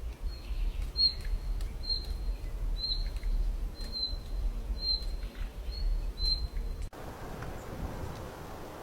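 A bird chirping, a short high chirp repeated about once a second over a low rumble. The chirps stop as the sound cuts off suddenly about seven seconds in, giving way to a steady hiss.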